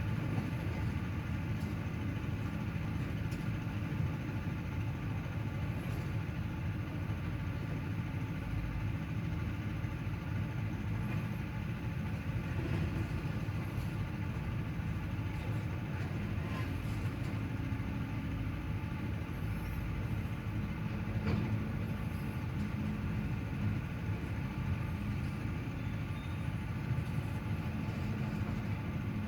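Construction machinery running steadily, heard from indoors as an unbroken low engine-like rumble with a droning hum and a few faint clicks.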